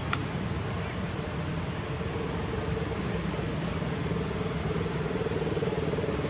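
Steady background hum and hiss, with one sharp click just after the start.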